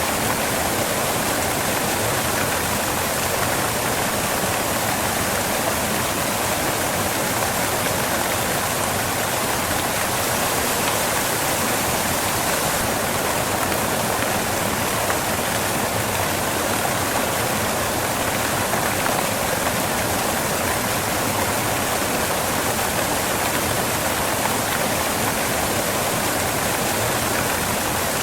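Waterfall crashing onto rocks: a steady, even rush of falling water with no breaks.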